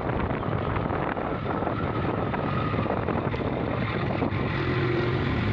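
Motorcycle on the move: its engine running steadily, mostly buried under wind buffeting the microphone.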